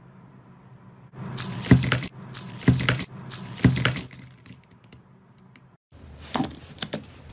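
Slime being squished and worked, making three loud wet squelches about a second apart. After a break come two smaller sharp pops.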